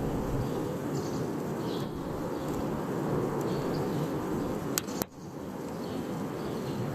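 Wood campfire burning with a steady low rumble of flames, with a couple of sharp pops from the wood about five seconds in.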